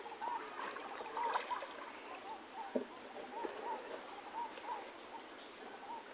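Small village boat being paddled on a pond: faint water sounds, with a single sharp knock about three seconds in. A short arching call is repeated many times throughout.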